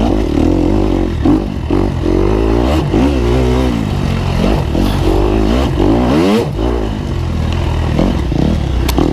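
Dirt bike engine revving up and down under changing throttle while being ridden, with rattling clatter.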